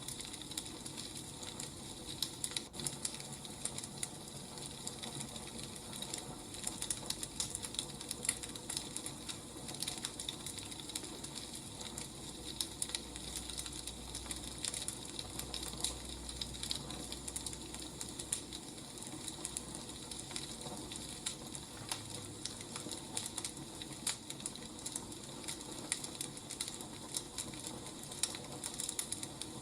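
Wood fire burning, with a continuous dense crackle of small pops and snaps.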